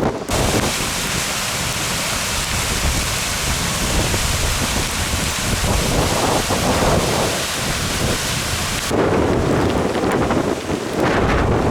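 Rain falling with a steady hiss while wind buffets the microphone with rumbling gusts. The hiss cuts off suddenly about nine seconds in, leaving mostly the wind rumble.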